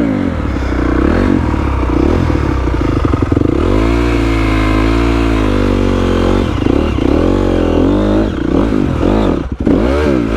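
Honda CRF250R's single-cylinder four-stroke engine running and revving, its pitch rising and falling again and again, with a short drop in revs near the end.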